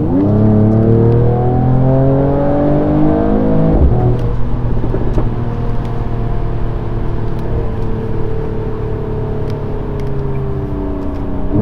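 Mercedes-AMG CLS53's turbocharged inline-six accelerating hard: the revs climb for about four seconds, break for an upshift, then climb again more slowly through the next gear.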